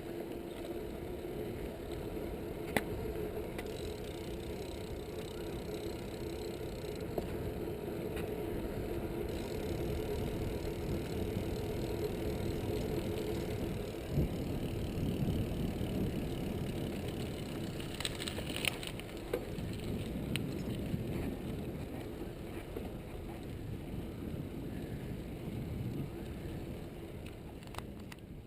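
A mountain bike in motion: steady rolling noise with a hum for the first several seconds, and a few sharp clicks and rattles from the bike.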